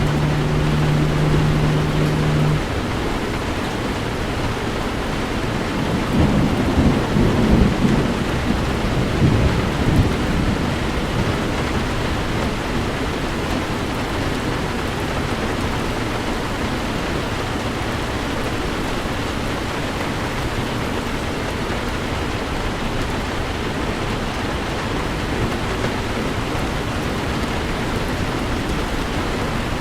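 Heavy rain falling steadily on a car. A low steady hum cuts off about two and a half seconds in, and a low rumble of thunder swells and fades between about six and ten seconds in.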